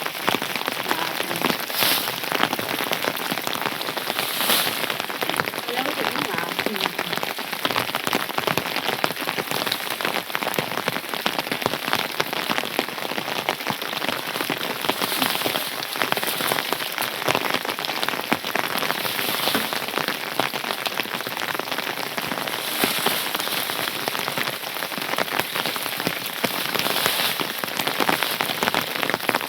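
Steady heavy rain falling, a dense, even patter of drops.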